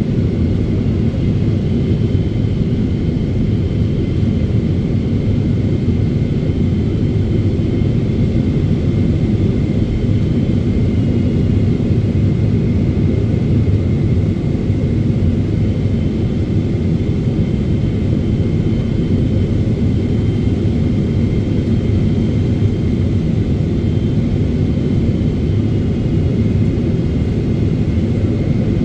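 Steady roar of airflow and GE90 engines heard inside the cabin of a Boeing 777-300ER in flight, with a faint steady high whine above it.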